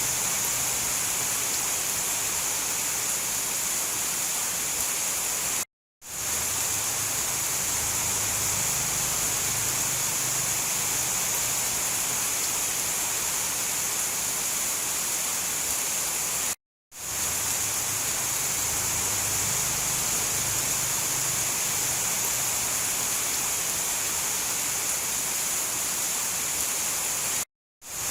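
Steady rain falling as a dense, even hiss. It cuts out to silence for a split second three times, about every eleven seconds, and fades straight back in each time.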